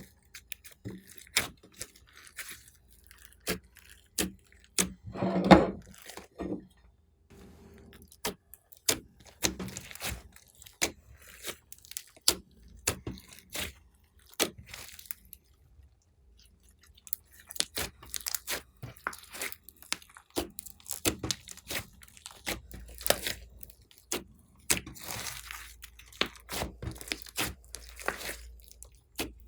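Slime being squeezed and kneaded by hand, with many quick, irregular sharp clicks and pops of trapped air and a louder, longer squelch about five seconds in.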